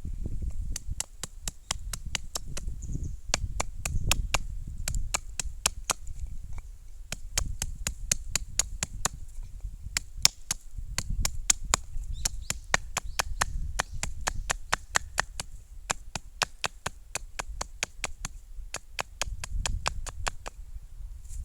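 A long run of sharp taps or knocks, about two to three a second, over a low rumble.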